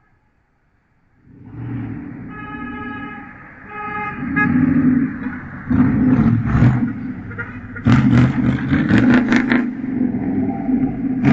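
Vehicles driving past with loud engines and exhaust, building after about a second. A car horn honks twice, then come two rapid clusters of sharp bangs and another loud burst near the end.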